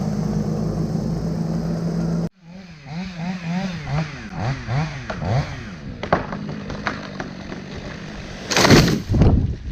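A machine's engine runs steadily, then cuts off abruptly about two seconds in. A chainsaw follows, revving up and down over and over, and a loud, brief burst of noise comes near the end.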